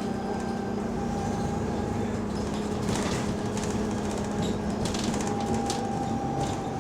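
Bus engine running under way, heard from inside the bus: a steady drone with a few sharp rattles in the middle. The bus has an exhaust leak.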